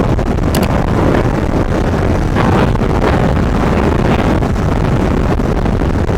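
Wind buffeting hard on an action camera's microphone while riding a motorcycle, a dense, steady rush with short gusts, the bike's running and road noise buried beneath it.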